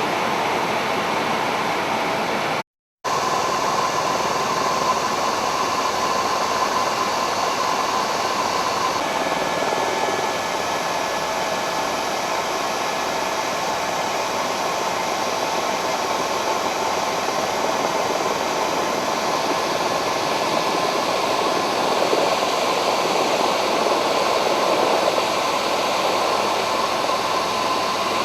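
Steady helicopter cabin noise: a constant loud hiss with a faint steady whine, briefly cut to silence about three seconds in.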